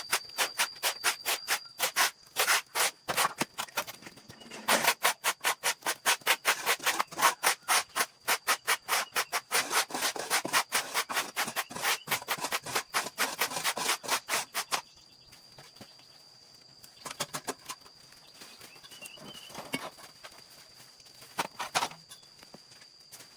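Rapid rhythmic scrubbing strokes, about three to four a second, as a surface is scrubbed or swept; they stop about fifteen seconds in, leaving only a few scattered strokes. A faint steady high tone sits underneath.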